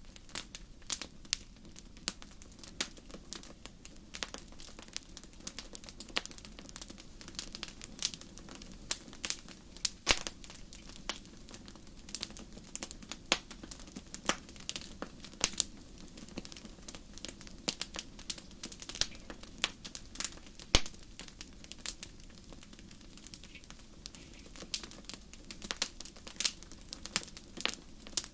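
Fireplace fire crackling: irregular sharp pops and snaps, several a second, over a steady low hiss, with a few louder pops about ten and twenty-one seconds in.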